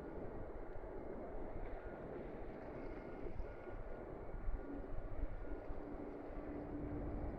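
Steady low rumble of a ship under way, with wind noise on the microphone; a faint steady hum comes in about halfway through.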